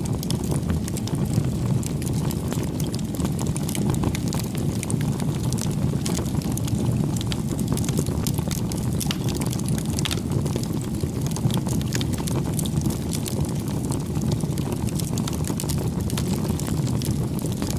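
Wood campfire burning: a steady low rush of flames with frequent small crackles and pops from the burning wood.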